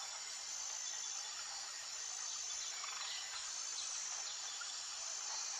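Steady high-pitched insect chorus, with a few faint short chirps about three seconds in.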